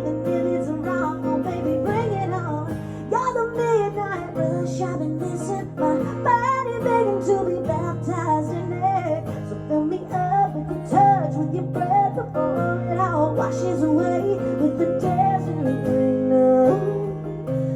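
Instrumental outro of a live acoustic country song: strummed acoustic guitar chords under a melody line that bends and slides in pitch.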